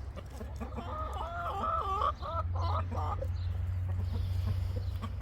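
Chicken clucking: a run of short calls from about a second in to about three seconds in.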